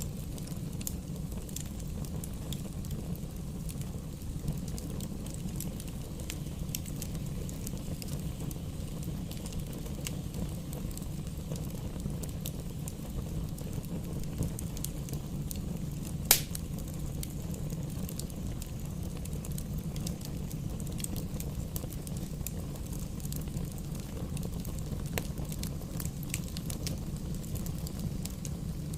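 Wood fire burning in a fireplace: a steady low rumble of flames with scattered light crackles of burning logs, and one loud pop a little past halfway.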